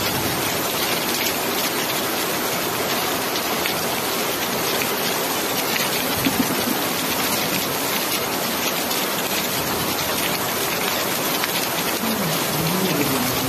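Steady rain falling on surfaces: an even hiss flecked with many small drop ticks. Near the end a faint tone glides up and down beneath it.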